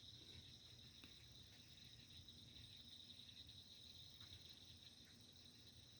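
Faint steady chorus of crickets trilling at a high pitch.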